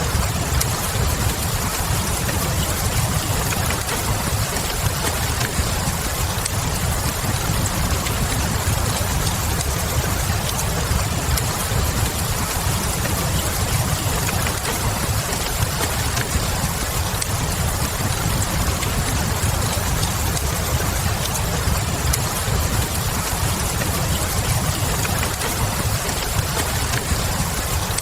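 Steady rain, with a low rumble underneath and light crackles from a wood fire.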